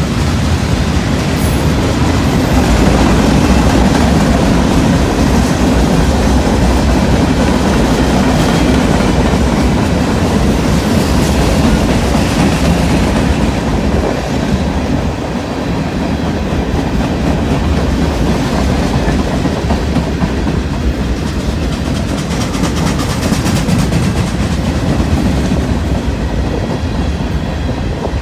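A CSX freight train rolling past, its car wheels clicking steadily over the rail joints.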